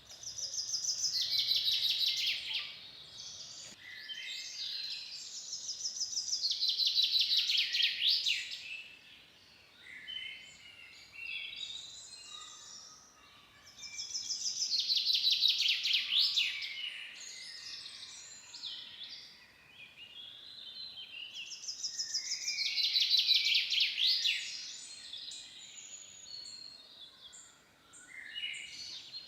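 Songbird singing a fast, high run of rapidly repeated notes lasting two to three seconds, four times over, with quieter scattered chirps in between.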